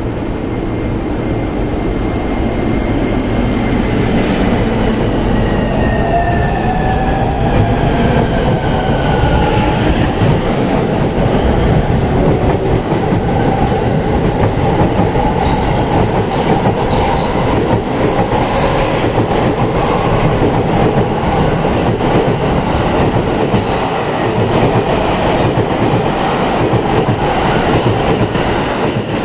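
E231 series 1000 EMU pulling away, its VVVF traction inverter whining as it accelerates. A few seconds in, the high inverter tone slides steadily down in pitch, the 'falling' sound that gives this type its 墜落インバータ (falling inverter) nickname, while a lower motor tone rises. Wheel clickety-clack over the rail joints sets in about halfway through.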